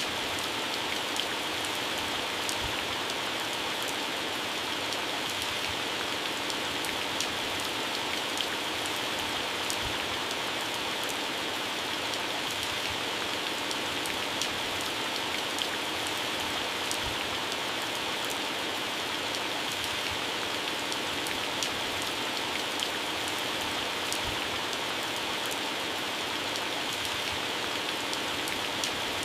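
Heavy rain falling steadily on garden plants and grass: an even hiss of rain with many scattered sharp drop impacts on leaves.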